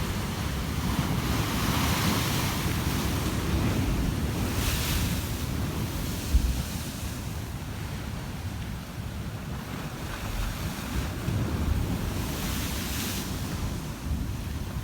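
Wind buffeting the microphone with a low, gusty rumble, over a rushing noise like surf that swells and fades a few times.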